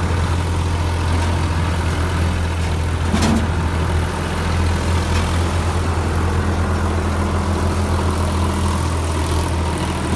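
Tractor engine running with a steady, low drone. There is a short knock about three seconds in.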